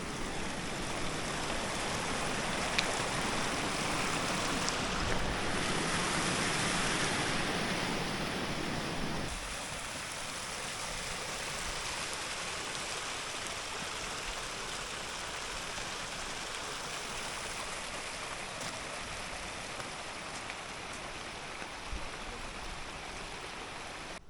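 Steady rush of a flowing mountain stream, dropping suddenly to a quieter level about nine seconds in.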